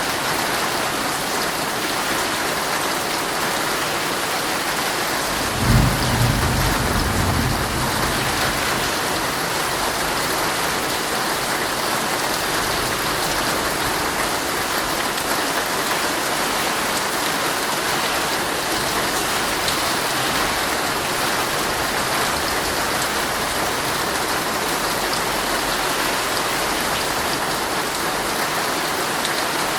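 Heavy rain falling steadily on a tent. About six seconds in, a low clap of thunder that rumbles on for a couple of seconds.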